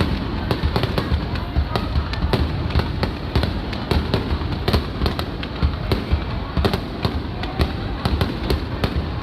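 Fireworks going off in rapid succession: many sharp bangs and crackles, several a second, over a continuous low rumble of bursts echoing.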